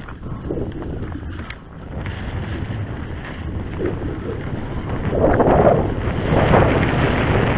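Wind buffeting the microphone, swelling in gusts about five seconds in.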